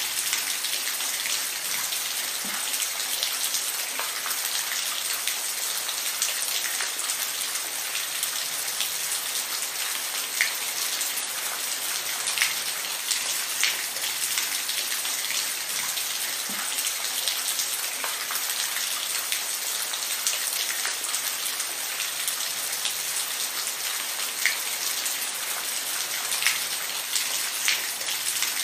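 Steady rain with a continuous hiss and scattered louder individual drops striking a surface.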